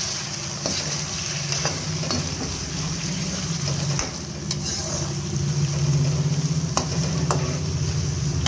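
Chicken pieces and garlic-ginger paste sizzling in hot oil in a kadhai. A spatula stirs them, scraping and knocking against the pan several times, over a steady low hum.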